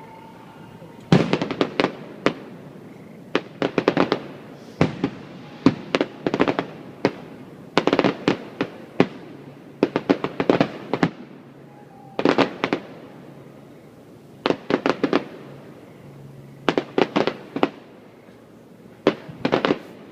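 Fireworks display: volleys of sharp cracks from bursting aerial shells, one crackling cluster every one to two seconds.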